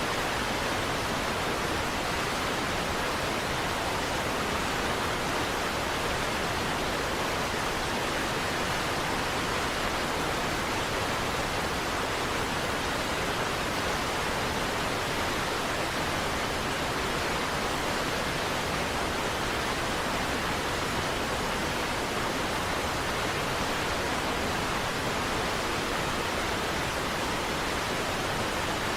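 Niagara Falls waterfall: a steady, unbroken rush of falling water, even throughout.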